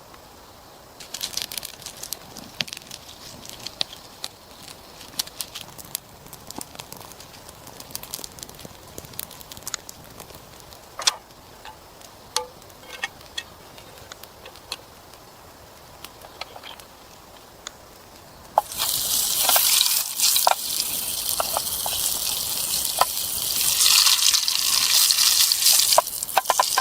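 Food frying in a hot pan over a campfire: a faint sizzle with scattered sharp crackles and pops, then a much louder, dense sizzle that starts suddenly about two-thirds of the way through.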